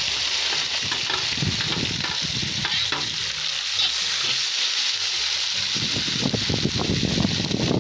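Sliced onions and carrots sizzling with a steady hiss as they hit hot rendered pork fat and oil in a cast-iron kazan. A spatula scrapes and stirs them during the first few seconds and again near the end.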